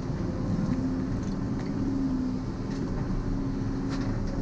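Volvo EC140EL tracked excavator's diesel engine running steadily, with a held low hum that swells and fades slightly and a few faint clicks.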